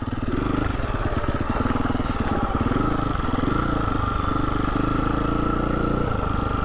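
Single-cylinder four-stroke engine of a Husqvarna 350 FE dirt bike running steadily while being ridden, its note changing a little near the end.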